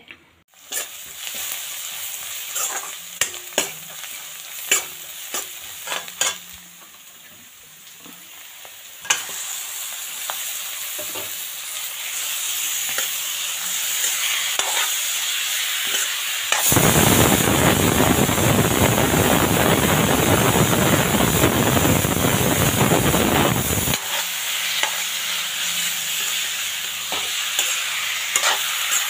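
A metal spatula clinks and scrapes in a kadai, then meat sizzles as it is stir-fried. The sizzle builds, is loudest for about seven seconds past the middle, then drops back to a softer sizzle with scraping.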